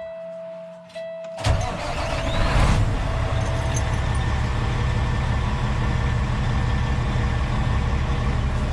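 Heavy diesel truck engine starting: a steady dash warning buzzer sounds, then about a second and a half in the engine cranks and fires and settles into a steady low idle.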